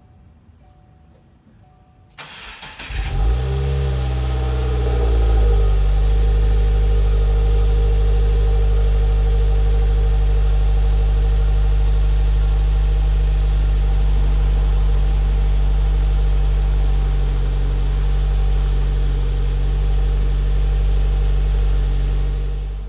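Subaru WRX's turbocharged flat-four engine started: the starter cranks for under a second, the engine catches about three seconds in, flares up in revs, then settles into a steady idle heard at the quad exhaust tips.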